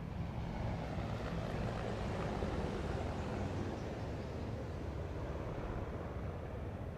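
Military aircraft flying over, heard as a steady rumble that eases a little near the end.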